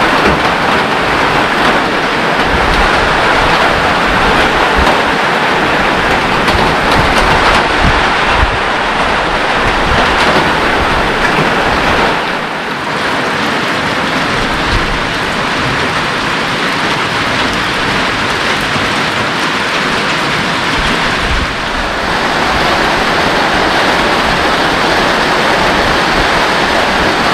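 Heavy rain falling steadily as a dense, even hiss that eases slightly for a while in the middle.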